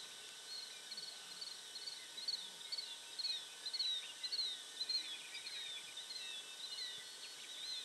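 A songbird repeats a short rising-and-falling chirp about twice a second, with a brief lower trill from another bird about five seconds in. Under it runs a faint steady high hum.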